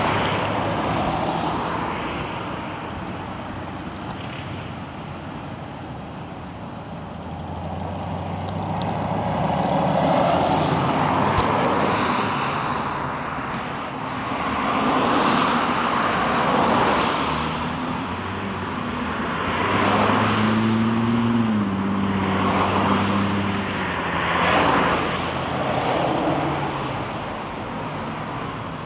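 Road traffic: vehicles passing one after another, each swelling up and fading, with an engine's hum standing out for a few seconds about two-thirds of the way through.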